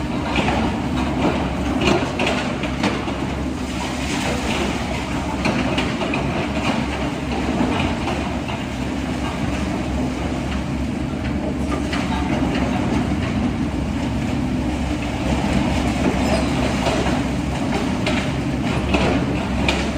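Heavy excavator's diesel engine running steadily, with irregular metallic clanking and rattling throughout.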